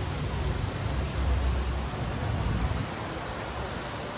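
Steady outdoor background noise: an even hiss with an uneven low rumble.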